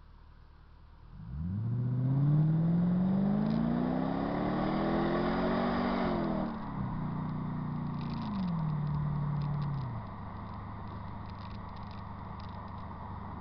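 Mercedes-Benz E55 AMG's supercharged V8 exhaust under acceleration: about a second in, the engine note comes in loud and climbs steadily in pitch for about five seconds, then drops off quickly as the throttle is lifted. It then holds a steady lower note, steps down again, and quietens near the end.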